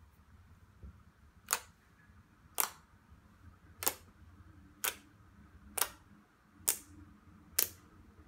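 A series of seven sharp clicks, about one a second.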